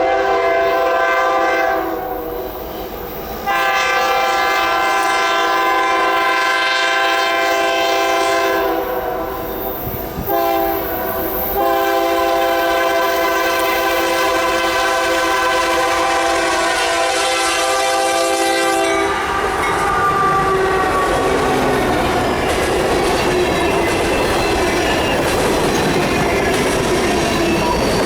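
Air horn of the lead locomotive, Union Pacific GE AC44CWCTE 5682, sounding a multi-tone chord in the grade-crossing pattern of long, long, short, long, ending about two-thirds through. Then the freight train passes close by, its wheels rumbling and clattering over the rails.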